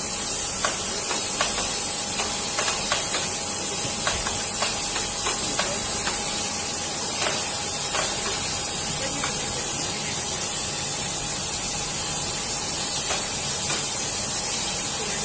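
Steady, loud high-pitched hiss, with a faint steady tone underneath and scattered light clicks and taps.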